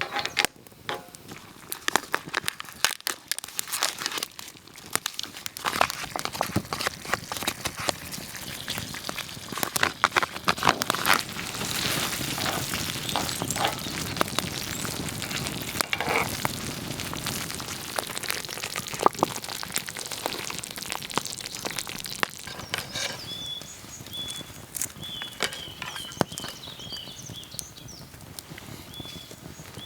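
Food frying in a pan, sizzling steadily, with scattered clicks and taps of utensils; the sizzle is densest in the middle. A thin high steady tone, broken now and then, joins for the last several seconds.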